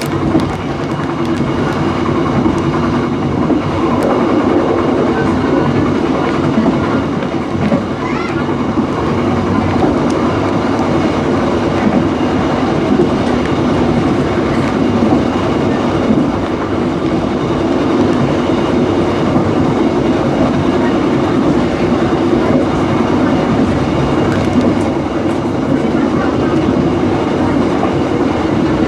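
Dhoho passenger train running along the line, heard from aboard: a steady rumble and clatter of the carriages' wheels on the rails.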